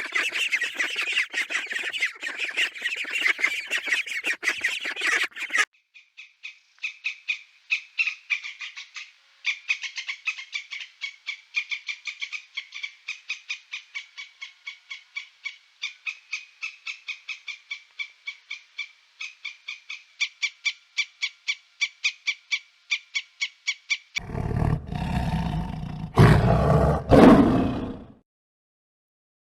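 A dense chorus of bird calls, cutting off after about five seconds, then a long run of quick, evenly repeated high chirps, about three a second. Near the end, a tiger roars loudly, in two long roars.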